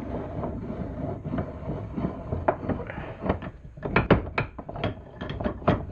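Old Abernathy wood vise being worked by hand: a low rumble from the screw turning, with a run of knocks and clicks that come faster in the second half as the jaw and quick-release nut clunk. Fresh paint on the nut is dragging, so the quick release does not yet drop out cleanly.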